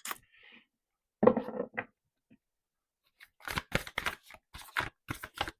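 Tarot cards being shuffled by hand: a quick run of crisp, papery flicking snaps in the second half, after a brief murmur of voice.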